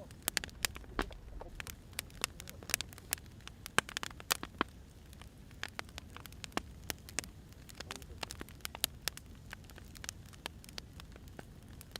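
Firewood burning in a fire: irregular sharp crackles and pops, several a second, over a steady low rumble of the flames.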